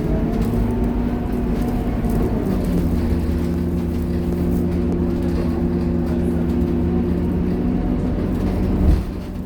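Scania K230UB bus's five-cylinder diesel engine running under way, its pitch stepping down about two and a half seconds in and then holding steady. A short knock comes near the end, and the engine then drops a little in loudness.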